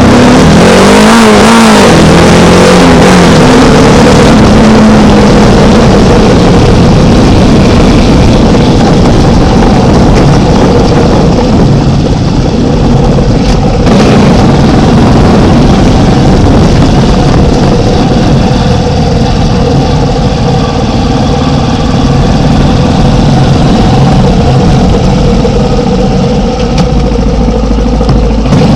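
Small motorcycle engine running under way, its pitch rising and falling in the first few seconds, then holding a steady drone.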